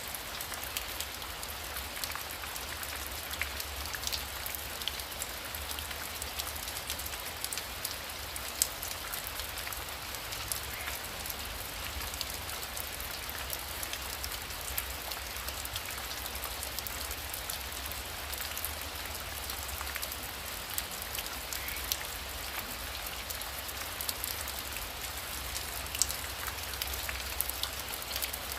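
Heavy rain falling steadily, a dense hiss with now and then a sharper drop tap standing out, over a steady low rumble.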